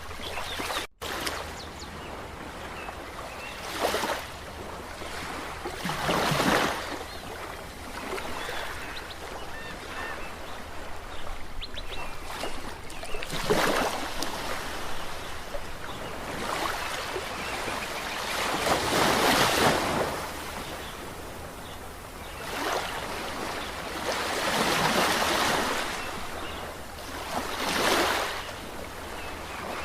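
Ocean waves washing in, each surging to a loud rush every few seconds over a steady hiss of surf. The sound briefly cuts out about a second in.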